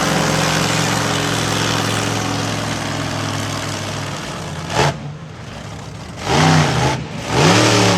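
Monster truck engine running at a steady high speed, then dropping back and revved hard twice in short blips near the end, the pitch rising and falling with each.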